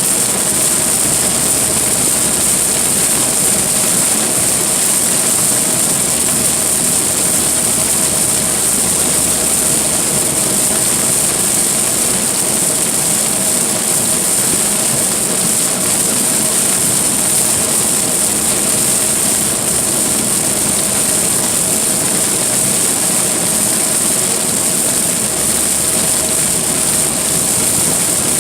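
Steady noise of a car driving through heavy rain: rain hissing on the car over tyre and engine noise, with a faint steady hum, unbroken throughout.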